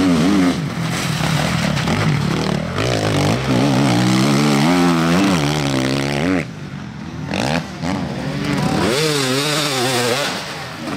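Enduro motorcycle engines revving hard on a dirt track, their pitch repeatedly rising and falling as the riders accelerate and shift gear. About six and a half seconds in the sound drops, then another bike's engine revs up and down.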